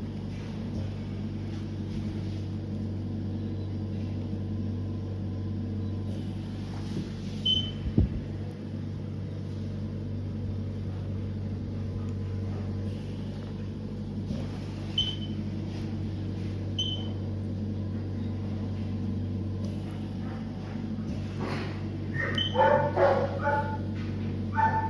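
Dogs whining and yipping in the background over a steady low hum, with a few sharp high yelps scattered through and a short run of whines near the end.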